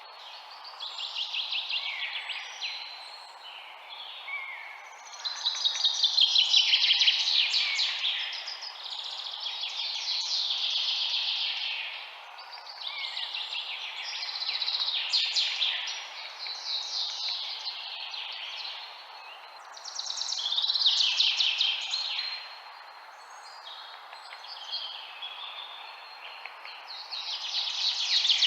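A dense chorus of many small birds chirping and twittering at once, the rapid chirps swelling and fading every few seconds, over a steady background hiss.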